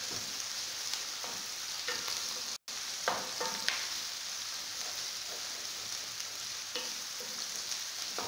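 Chopped onions sizzling as they fry in hot oil in a granite-coated pan, with a wooden spoon stirring and scraping the pan in scattered short knocks. The sound breaks off for an instant about a third of the way in.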